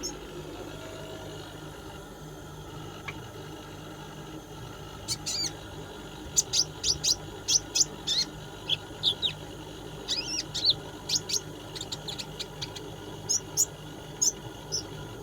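Konin (kolibri ninja) sunbird singing its trotol song: bursts of short, high, rapid chirps and trills that begin about five seconds in and come again and again, over a faint steady hum.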